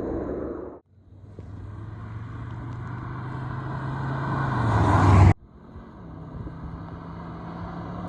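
2025 Skoda Kodiaq RS's 2.0 TSI turbocharged four-cylinder engine and exhaust running at a steady pitch. The sound cuts off suddenly about a second in and again about five seconds in, and after each cut it grows steadily louder.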